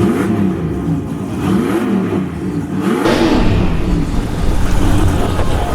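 Racing truck engine revving, its pitch climbing and falling again about three times, with a louder, rougher surge about halfway through.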